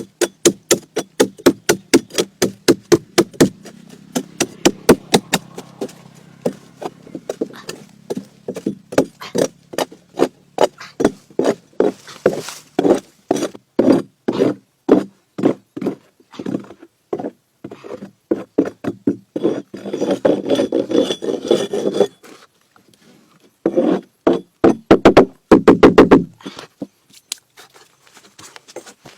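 Wood being struck over and over with a hand tool, about two or three sharp blows a second, with stretches of scraping or rasping on the wood about two-thirds of the way through and again near the end.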